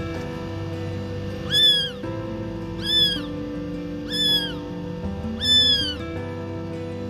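Newborn kittens crying for their mother: four high, arching meows, about one every second and a half, over steady background music.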